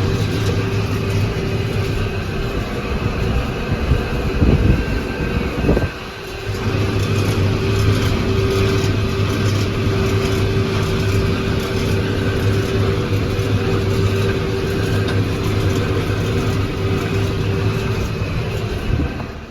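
McCormick MTX 150 tractor engine running steadily under load with the hum of its drive. It dips briefly about six seconds in and then carries on steadily until it cuts off suddenly at the end.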